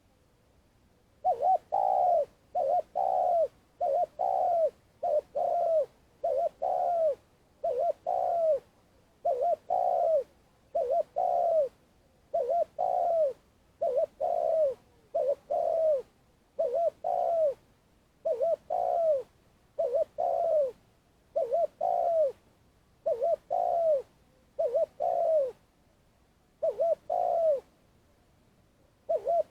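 Spotted dove cooing in a long run of repeated phrases, each a quick cluster of low coos, with a new phrase every one and a half to two seconds, beginning about a second in. This is the long calling song of a decoy bird, used to lure wild spotted doves.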